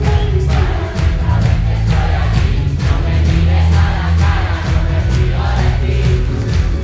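Live pop concert music played loud over a PA, heavy in the bass, with singing voices and crowd sound mixed in.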